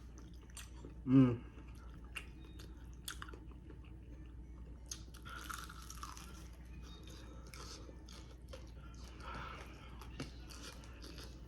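Close-miked chewing and biting of crispy fried chicken: wet mouth clicks and smacks with crunchy patches, and a short hummed "mm" about a second in.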